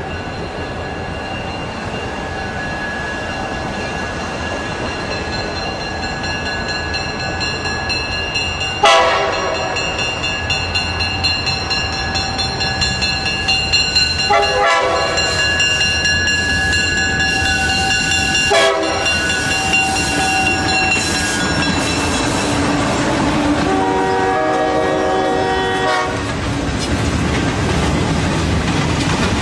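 Diesel freight train of the Delaware-Lackawanna approaching around a curve and passing. Its horn sounds four long blasts about five seconds apart, starting about nine seconds in, over steady engine and wheel noise that grows louder as the locomotive and cars go by.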